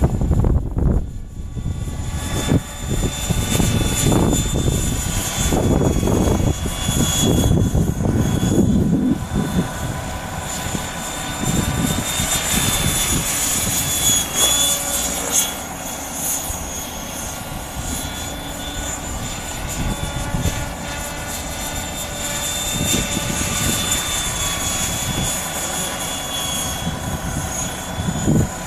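Electric 12-cell KDS Innova 600 flybarless RC helicopter in flight: a steady high motor whine over the rotor's drone, wavering slightly in pitch. Gusts of wind rumble on the microphone, mostly in the first several seconds.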